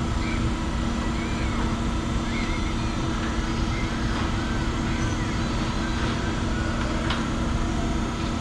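Steady low drone of a Dodge Charger Hellcat's supercharged V8 and exhaust holding a constant engine speed, with faint high chirps over it.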